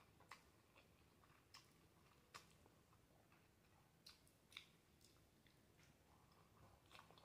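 Very faint chewing of black bean noodles: a few soft, scattered mouth clicks and smacks over near silence.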